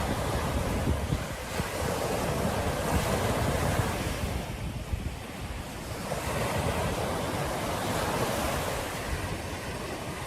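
Ocean surf breaking and washing on a beach, in rolling swells that ease off about halfway through and build again, with wind rumbling on the microphone.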